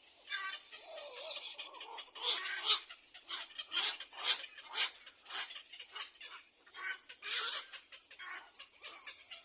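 Nestling birds giving a rapid series of short, harsh calls, typical of chicks begging to be fed.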